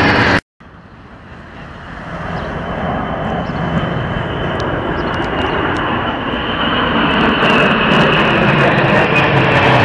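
Military aircraft flying overhead: a broad engine noise that builds up over a few seconds, after a brief dropout, and then holds steady and loud.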